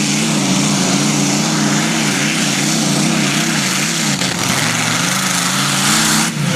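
Pulling tractor's engine running hard at high revs, its pitch wavering quickly up and down over a loud rushing exhaust noise. It changes abruptly near the end.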